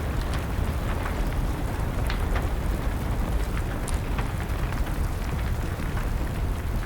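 Wood fire crackling, with scattered sharp pops, over steady rain.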